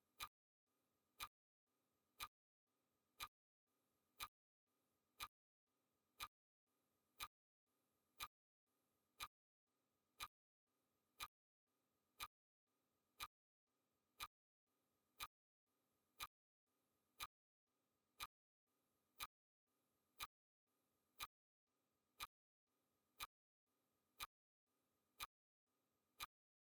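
Clock-ticking sound effect of a countdown timer: faint, sharp ticks, one every second, evenly spaced with quiet between them.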